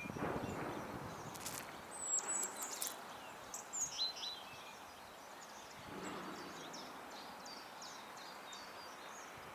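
Small garden songbirds chirping and calling: many short, high chirps throughout, a few louder ones around two to four seconds in, over a soft rustling background.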